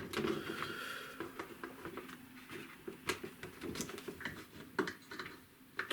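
Quiet scratching and irregular light taps and clicks of watercolour painting work, with brush and tools handled against the paper and palette.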